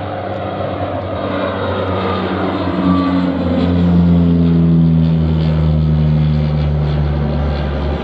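Aircraft passing close by, its engine noise swelling to its loudest about four seconds in while its tones slide down in pitch as it goes past.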